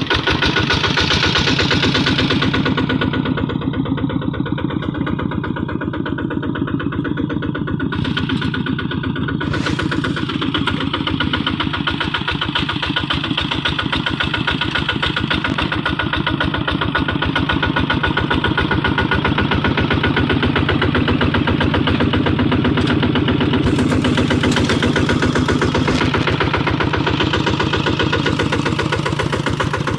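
Kubota hand tractor's single-cylinder diesel engine running with a steady, rapid firing beat. It eases off a little from about three to nine seconds in, then picks back up.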